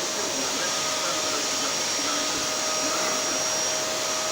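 Electric household vacuum cleaner running steadily: a constant motor whine over rushing air noise.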